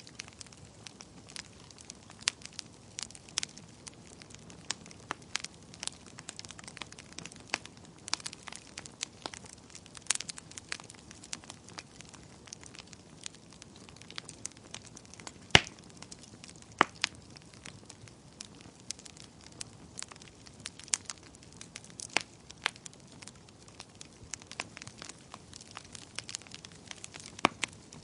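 Wood fire crackling, with irregular sharp pops and snaps over a faint steady hiss; one pop about halfway through is louder than the rest.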